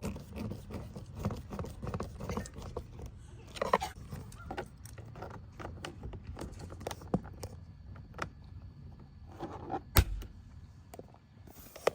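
Hands working at a car's interior door panel: a run of small clicks and light metallic rattles, with one sharp knock about ten seconds in.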